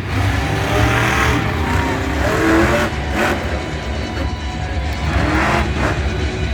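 Monster truck engine running loud in a stadium arena, a deep steady rumble with some rising and falling revs.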